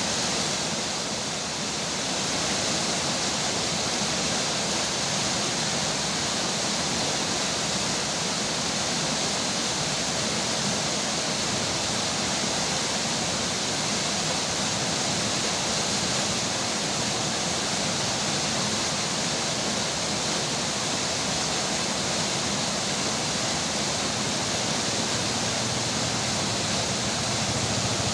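Steady rush of flowing river water mixed with falling rain, an even hiss with no breaks.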